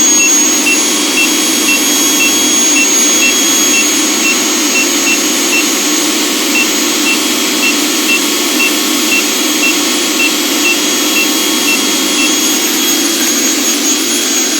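Vacuum cleaner motor running steadily, with a field meter's alarm buzzer beeping about twice a second over it, a sign that the meter reads above its danger threshold. The beeping pauses briefly about six seconds in and stops a couple of seconds before the end.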